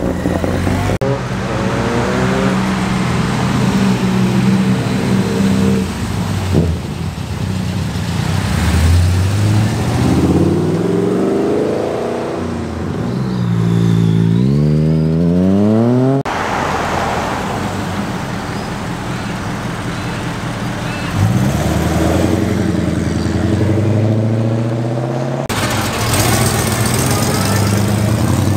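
Car engines revving and accelerating away, rising in pitch and dropping back between gear changes, across several short cuts. Near the end a Ford Falcon hardtop pulls away.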